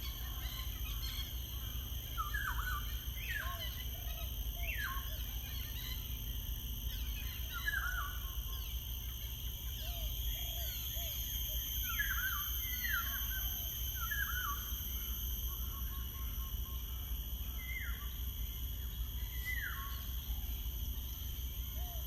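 Songbirds calling outdoors: short, repeated notes that sweep quickly downward in pitch, a few each second or two, with softer lower chirps between them. Underneath is a steady high-pitched hum and a low rumble.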